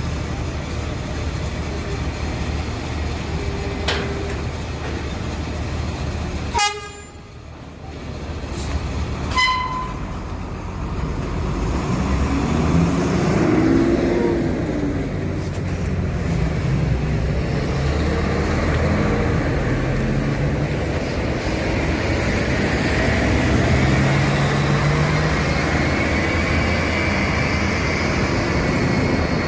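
Scania K410 double-decker coach's diesel engine running, with two short horn toots in the first ten seconds and a sharp click about seven seconds in. From about twelve seconds the engine grows louder and its pitch rises and falls as the coach pulls away under load.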